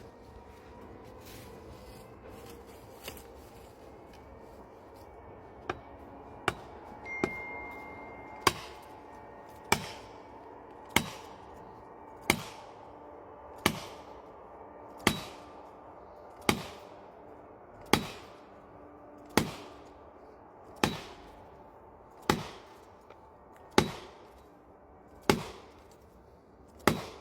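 Wood being chopped with an axe: a few light knocks, then steady, evenly paced strikes from about eight seconds in, roughly one every second and a half, each with a short ring-out.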